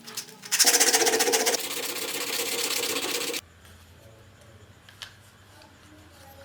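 A small electric motor runs with a fast, rattling buzz, starting about half a second in and cutting off abruptly about three seconds later. A low hum and a few faint clicks follow.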